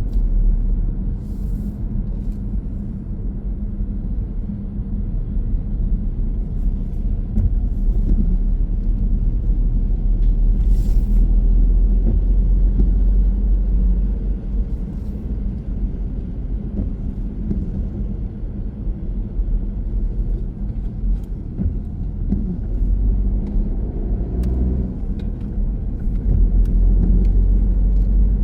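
Car on the move: steady low rumble of engine and road noise, with a few faint clicks.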